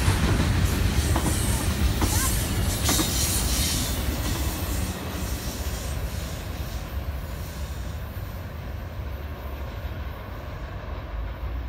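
Freight train of container cars rolling past on the rails, its wheels rumbling and clattering, with brief high wheel squeal about two to three seconds in; the sound slowly fades as the train moves on.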